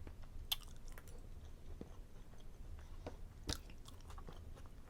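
A person chewing food close to the microphone: soft wet mouth clicks and smacks at irregular moments, the sharpest about three and a half seconds in.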